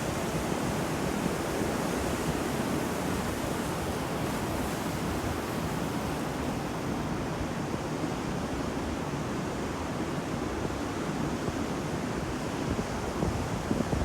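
Sea waves on a beach: a steady, even rush of surf with no single loud crash standing out.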